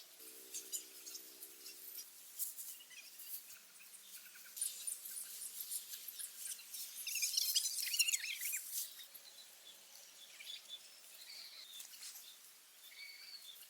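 Scattered rustling and small clicks, with a flurry of quick bird chirps about seven to nine seconds in. A faint hum sounds briefly at the start.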